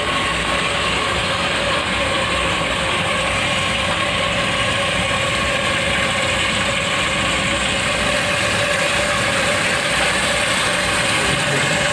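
Toilet inlet valve letting water run into the tank: a steady rushing hiss with a faint whistling tone.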